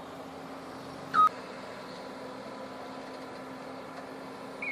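A heavy-equipment reversing alarm gives one short electronic beep about a second in, over a steady low hum of an engine running.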